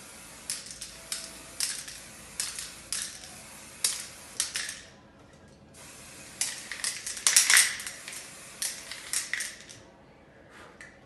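Aerosol can of repair lacquer spraying with a hiss in two passes, broken off briefly about five seconds in, the hiss swelling in uneven spurts.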